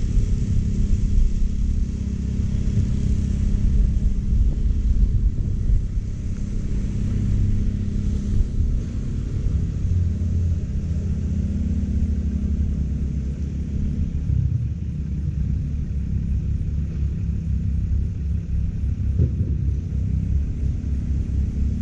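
Gas-powered California Trimmer reel mower running steadily while cutting short Bermuda grass: a low engine rumble with the reel turning.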